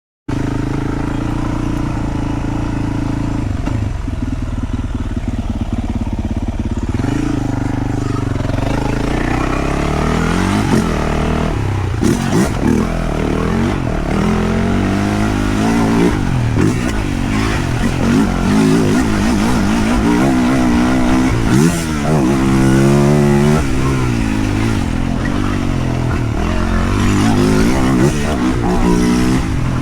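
Yamaha YZ450F's single-cylinder four-stroke motocross engine running at a fairly steady pitch for about seven seconds, then revving up and dropping back again and again as the bike is ridden.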